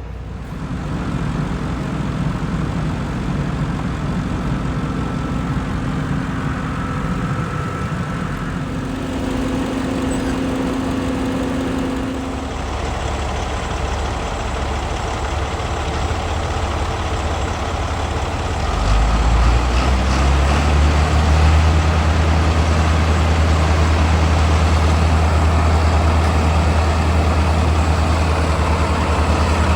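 Heavy diesel engine running steadily; about two-thirds of the way through, a deeper, louder drone takes over and holds steady.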